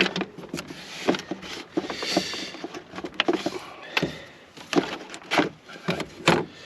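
Irregular clicks, knocks and scraping as the air filter and the parts of its housing are worked loose and pulled out by hand. A longer rubbing scrape comes about two seconds in.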